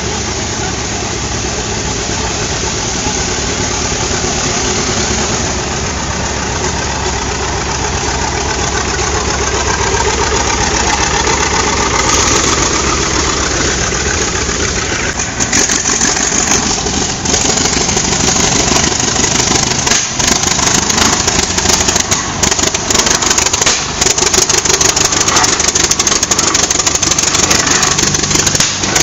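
Antique tractor engines running as they drive past, getting steadily louder, with many sharp clicks and pops crowding in during the second half.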